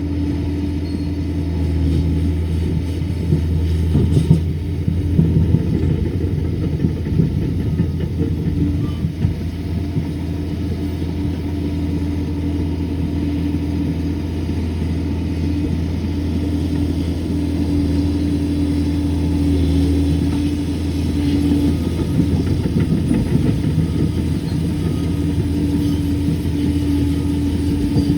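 Liebherr PR 746 crawler dozer's diesel engine running steadily, with louder, rougher stretches about four seconds in and again a little after twenty seconds.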